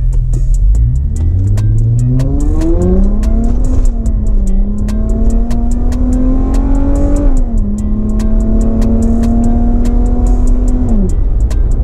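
Infiniti G35's V6 engine pulled hard under throttle: revs climb steeply for about three seconds, dip briefly, climb again, drop at an upshift about seven seconds in, then hold nearly steady before falling away near the end. Music with a steady beat plays underneath.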